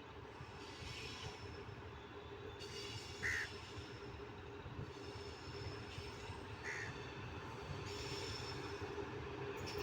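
Indian Railways train rumbling on the track, growing steadily louder as it approaches, with faint high wheel tones. A bird calls briefly twice over it, about a third and two-thirds of the way in.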